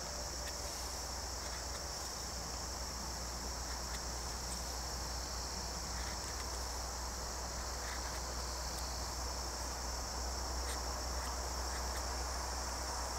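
Steady high-pitched chorus of insects trilling without a break, with a few faint, scattered clicks of a knife cutting into basswood.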